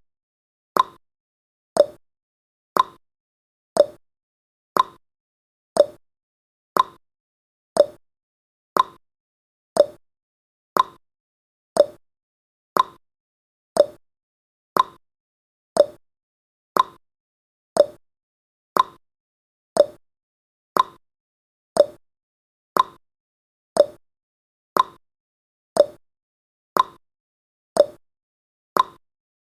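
Countdown timer's ticking sound effect: a short, sharp tick once a second, alternating between a higher and a lower pitch like a tick-tock.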